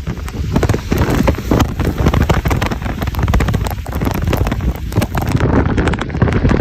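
Heavy rain falling while gusts of wind buffet the microphone with a low rumble.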